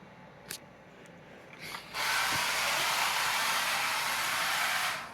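RC drift car's hard drift tires sliding on the basement floor in one sustained slide, a loud even hiss that starts abruptly about two seconds in and cuts off nearly three seconds later.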